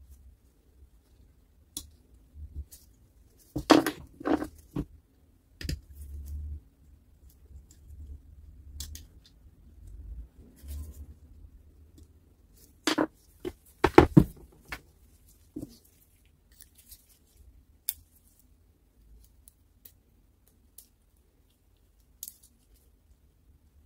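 Scattered clicks and knocks of small metal parts and hand tools being handled, with two clusters of louder knocks about four seconds in and again around the middle.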